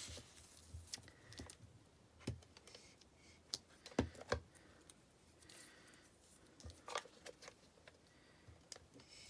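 Faint, scattered clicks and taps of craft handling: card stock and a glue roller being worked while the roller sticks and won't roll, because glue has got onto its edge.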